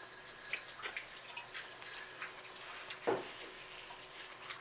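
Close-up wet eating sounds: chewing and lip smacks while eating sauce-coated seafood-boil corn, a string of short clicks with one louder, lower mouth sound about three seconds in.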